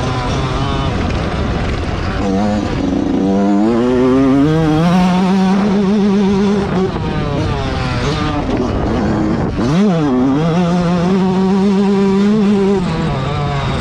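Motocross bike engine revving hard as it is ridden around a dirt track, heard close from an onboard GoPro. The pitch climbs and falls repeatedly with throttle and gear changes, with a sharp drop and fast climb just under ten seconds in.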